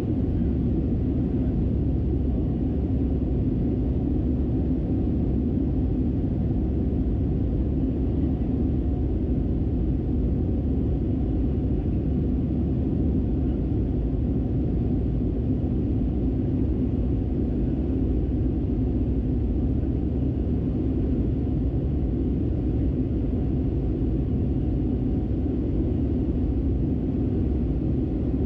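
Steady low rumble of jet engines and airflow inside the cabin of an Airbus A319, heard from a window seat, with an even hum and no change in level.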